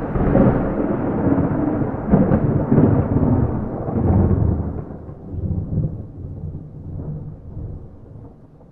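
A loud, close thunderclap rumbling and crackling, then slowly dying away over the last few seconds; no rain.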